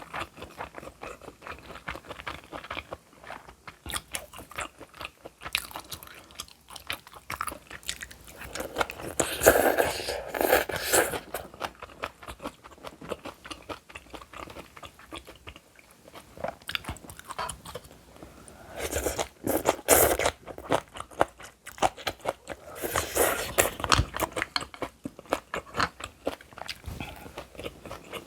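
Close-miked eating: steady chewing with crunchy bites and wet mouth sounds, louder in three short stretches about a third of the way in, two thirds in and near three quarters.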